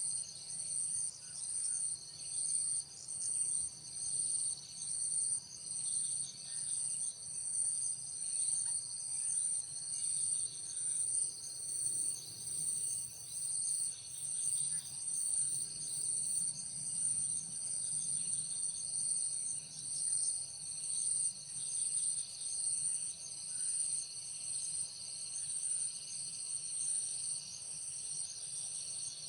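Insects calling in a steady, high-pitched chorus that swells and fades about once a second, evening out near the end.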